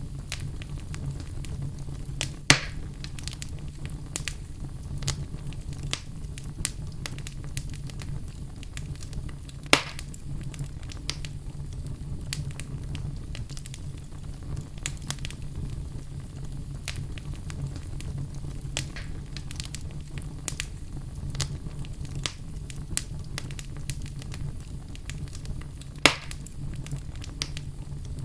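Wood fire burning in a fireplace, with frequent small crackles of burning logs. Three louder pops stand out: about two and a half seconds in, near ten seconds, and near the end.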